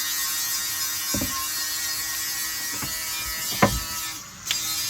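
A few sharp knocks and clunks of parts being handled, the loudest about three and a half seconds in, over a steady high electric buzz. The buzz cuts out for a moment near the end and comes back with a click.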